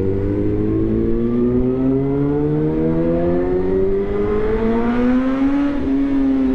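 Suzuki GSX-R1000's inline-four engine through a replica SC-Project exhaust, accelerating with its pitch climbing steadily for several seconds, then dipping at an upshift near the end.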